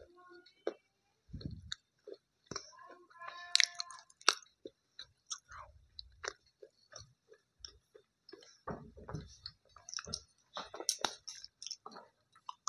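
Close-up chewing of crunchy slate pencil: irregular crunches and crackles, with louder bites about four seconds in and again near the end.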